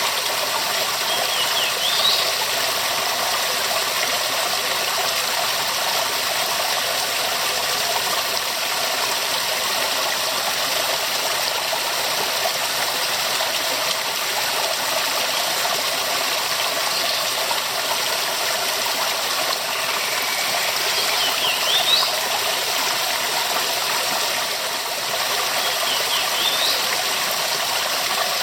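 Waterfall: a steady, even rushing of falling water.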